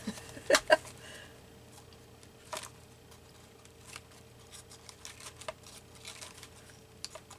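Paper cards being handled: a few light taps and clicks with faint rustling, over a steady low hum.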